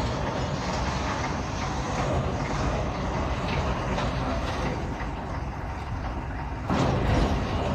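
Road roller's engine running steadily as it works the road surface, with a louder surge about seven seconds in.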